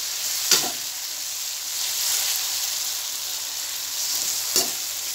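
Onions, tomatoes and green chillies sizzling in oil in an aluminium pan while a perforated metal spatula stirs them. The sizzle is steady, with two sharp clinks of the spatula against the pan, about half a second in and near the end.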